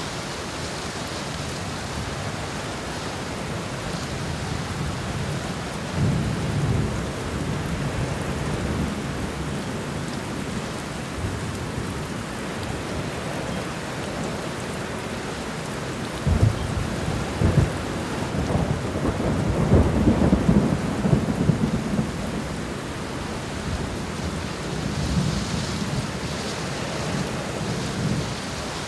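Steady rain falling during a thunderstorm, with thunder rumbling low. A sharp thunder crack a little past halfway leads into a longer, louder rolling rumble.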